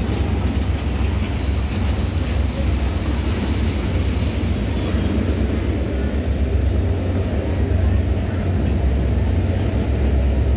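Train running along the track: a steady, loud, deep rumble with rail noise over it, unbroken and without any distinct clanks or horn.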